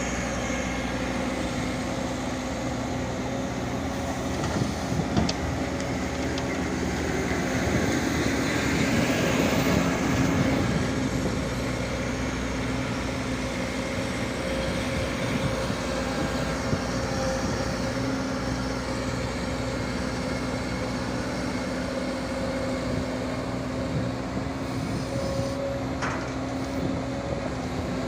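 Diesel engine of a Komatsu PC205-10M0 hydraulic excavator running steadily, swelling louder for a few seconds about a third of the way in. There are a couple of light knocks.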